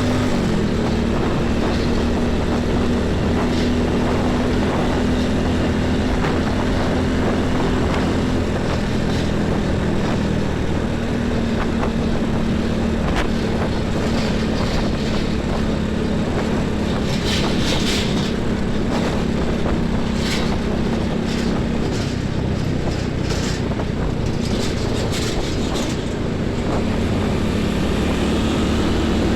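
Heavy diesel truck and bus traffic on a highway: a steady low engine drone, with several short hissing bursts between about two-thirds and nine-tenths of the way through.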